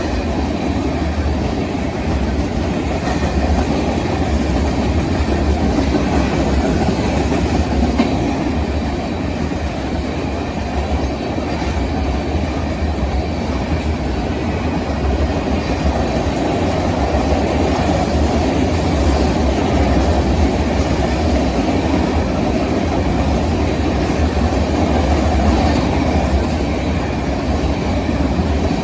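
A train's rail cars rolling past, wheels clattering steadily over the rail joints.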